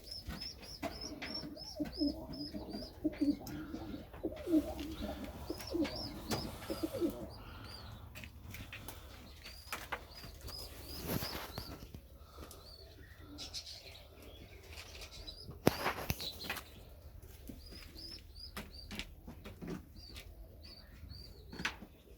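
Serbian Highflyer pigeons cooing in a loft, with several low coos in the first seven seconds and a few wing flaps later on. Other birds chirp throughout in quick, high notes.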